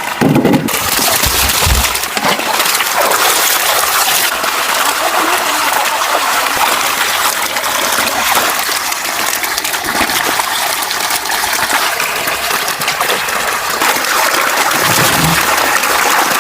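Running water, a steady rushing flow, with a few soft low knocks near the start and near the end.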